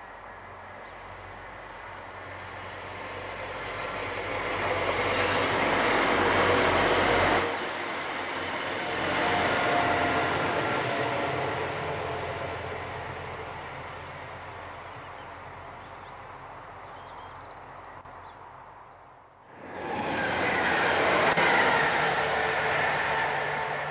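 A diesel multiple-unit passenger train passing close by on the line: its engine and wheels on the rails grow louder as it approaches, then fade away. The sound cuts suddenly twice, the second time to another loud close pass with a high thin whine.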